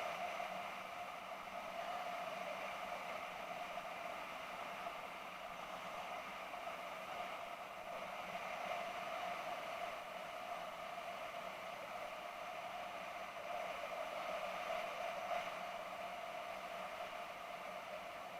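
BMW F650GS motorcycle on the move at a steady speed, as picked up by an action camera on the bike: an even hiss of wind and road noise over a steady engine hum.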